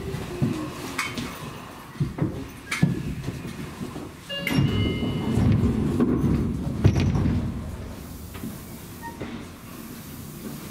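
Seibu Railway electric train running, with sharp clicks from the wheels and track in the first few seconds. A louder low rumble starts about four and a half seconds in with a brief high tone, lasts about three seconds, then eases back to a quieter steady running sound.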